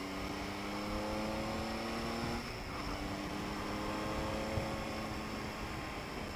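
Triumph Tiger 800 XRT's three-cylinder engine pulling under acceleration, its pitch rising, dropping sharply about two and a half seconds in as it shifts up a gear, then rising again and levelling off.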